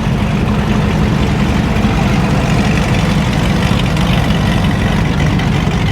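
A truck engine idling steadily close by, a deep, even rumble.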